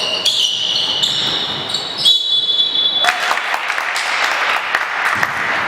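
Basketball game sounds in a gym: sneakers squeaking on the court and the ball bouncing. About three seconds in, a louder wash of crowd noise rises.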